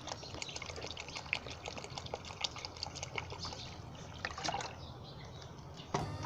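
Water being poured from a glass into a hot pot of fried masala, with many small crackles through the pour. Background music comes in near the end.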